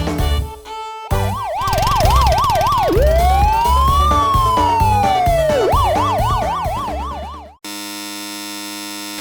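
Siren sound effect over background music with a steady beat. It starts as a fast yelp, turns into one slow rising-and-falling wail, then goes back to the fast yelp, and everything cuts off suddenly about seven and a half seconds in. A steady held tone follows.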